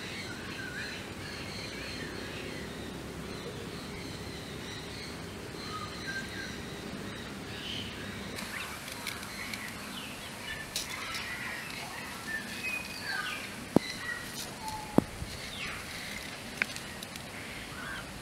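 Birds chirping over a steady outdoor background hiss, with two sharp clicks in the second half.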